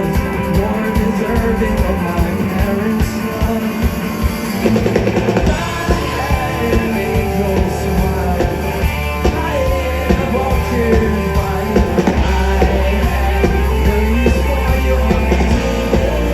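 Rock band playing live and loud, with drum kit, guitars and singing. A heavy sustained bass comes in about twelve seconds in.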